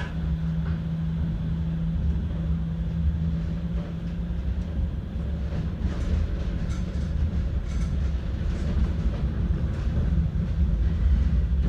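Manchester tram running on its rails: a low, steady rumble of wheels and running gear, with a steady hum that fades out about four seconds in.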